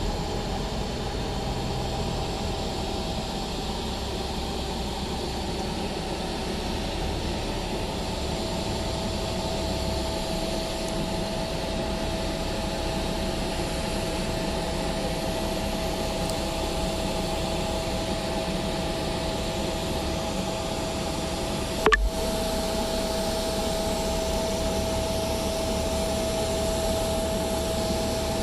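Boeing 777-300ER's GE90 jet engines running at idle as the airliner taxis in to park: a steady rushing hiss with a constant whine. A brief knock sounds about two-thirds of the way through.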